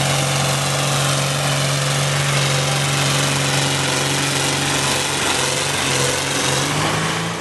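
Tractor engine running steadily under power, a continuous low drone.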